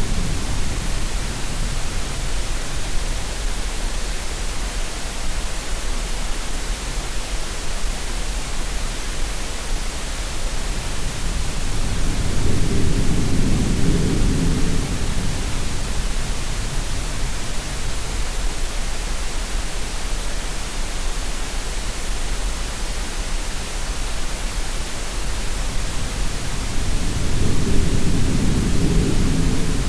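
Steady green-noise hiss with a low sea swell rising and fading under it, once about halfway through and again near the end.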